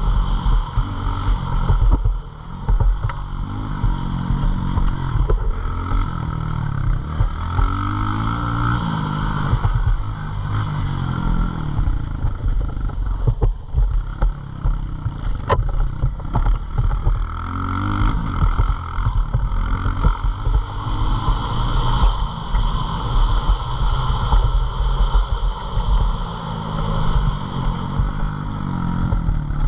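Pit bike engine revving up and down over and over, its pitch climbing and then dropping every few seconds.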